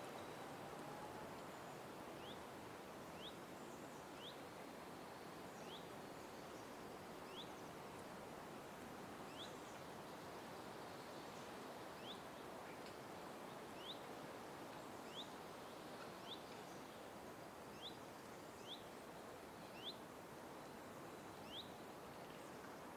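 A small bird repeating a single short, high, upward-sweeping chirp about every second or two, over a faint steady background hiss of outdoor ambience.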